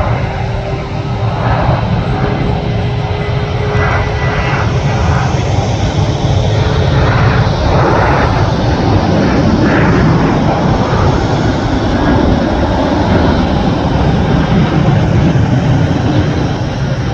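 Boeing 737 jet engines running loud and steady as the airliner passes close by, with a faint tone that rises slightly and fades about seven seconds in.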